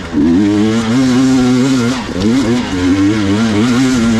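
Gas Gas EX 300 two-stroke enduro motorcycle engine running under the rider's throttle, holding a steady pitch at first, then dipping and rising in quick throttle changes from about two seconds in.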